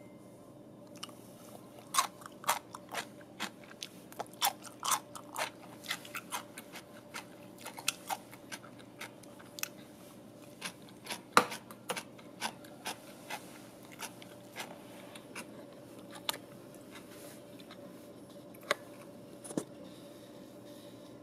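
Crisp crunching of pickled cucumber pieces being bitten and chewed, with sharp crunches coming about twice a second and thinning out to a few near the end.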